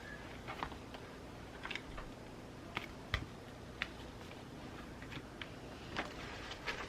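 Scattered light clicks and taps of journaling supplies being handled at a desk, over a steady hiss of rain.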